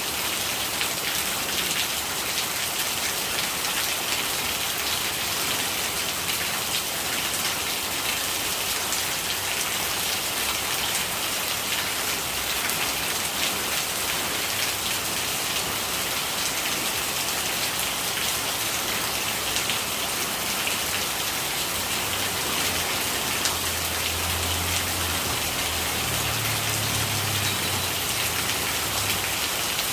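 Steady rain falling, an even hiss of water dotted with many small drop ticks, with a faint low rumble about three-quarters of the way through.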